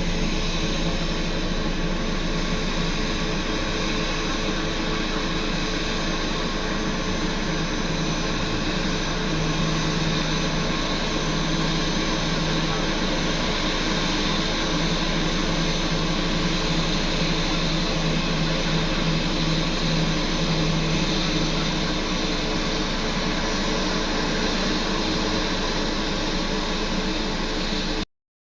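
Steady jet engine noise from a Boeing 737-800 airliner, an even rushing sound with a low hum, which cuts off abruptly near the end.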